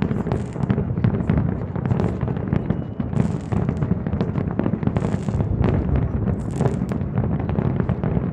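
Fireworks display in full swing: a dense, continuous barrage of booming shell bursts over a steady low rumble, with bright crackling sprays breaking out every so often.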